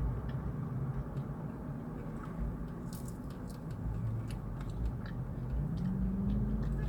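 Steady low rumble inside a car, with a few faint clicks and a low hum that rises near the end, like an engine picking up.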